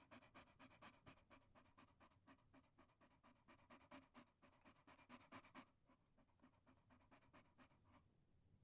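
Chihuahua panting rapidly, a quick even rhythm of several short breaths a second, faint and close, easing off near the end.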